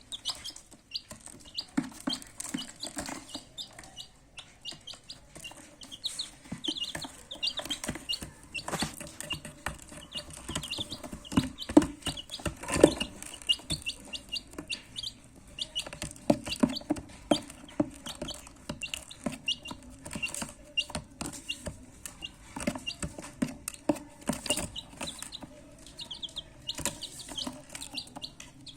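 Baby chicks peeping over and over in short, high-pitched calls, with scattered knocks and taps among them, the loudest about twelve to thirteen seconds in.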